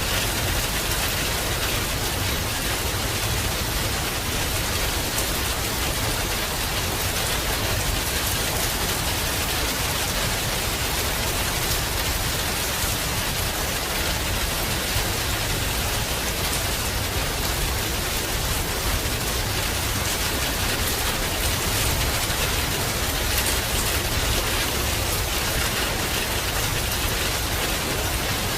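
Heavy rain falling steadily: a dense, even hiss of drops with a constant low rumble underneath.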